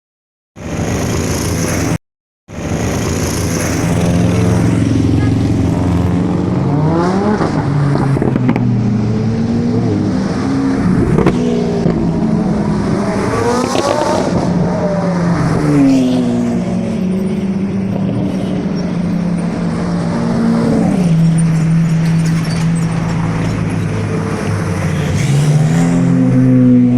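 Several supercar engines running together, revs rising and falling again and again. The sound cuts out briefly twice in the first couple of seconds.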